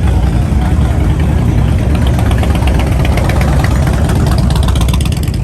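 A motorcycle engine idling close by, running steadily. A fast, even ticking rides on top of it from about two seconds in.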